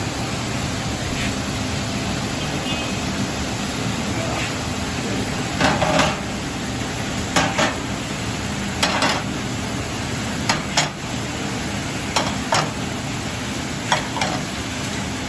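Flight-type conveyor dishwasher running with a steady hiss and hum. From about six seconds in, dishes clink and clatter in short knocks every second or so.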